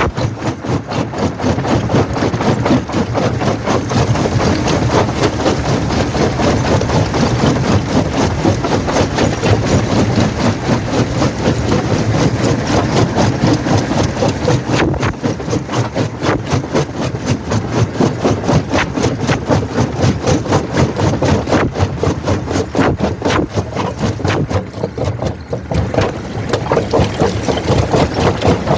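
A quarry primary jaw crusher plant running: steady heavy machinery noise with a fast, even pulse, dipping briefly near the end.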